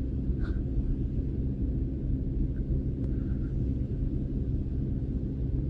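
A small motor's steady low hum and rumble, unchanging throughout.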